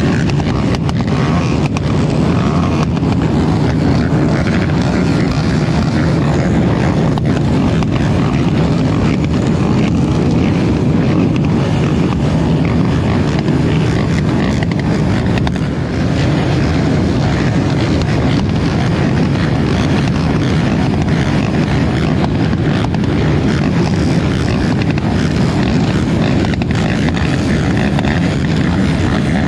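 2018 Polaris Scrambler 1000 XP's twin-cylinder engine running loud and steady under racing load, heard from on board the ATV.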